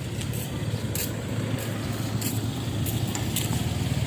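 A motor vehicle engine running steadily with a low rumble that grows louder near the end, with a few sharp clicks over it.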